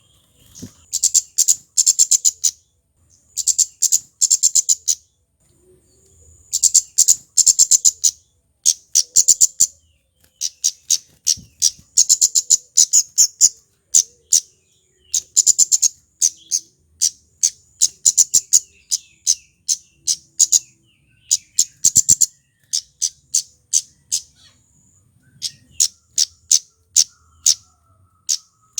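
Male kemade flowerpecker calling: runs of sharp, very high ticking notes, about ten a second, each run lasting a second or two and repeated over and over with short pauses.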